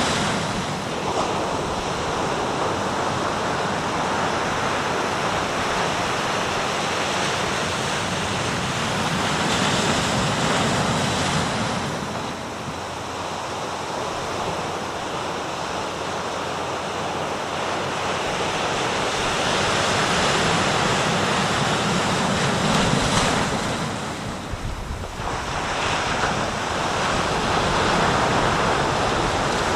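Sea waves breaking and washing on the shore in a steady surf that swells and eases every few seconds, with wind buffeting the microphone.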